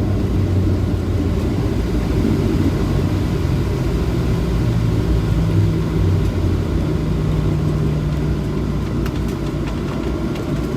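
Cabin noise of a Boeing 737-700 after landing: a steady low rumble from its CFM56 jet engines and airframe, with a low hum that shifts slowly in pitch. A few faint clicks come near the end.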